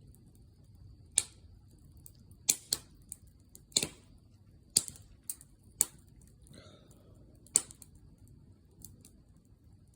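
Wood fire crackling in a fire stand: sharp, irregular pops, about eight in ten seconds, over a low soft rumble of burning.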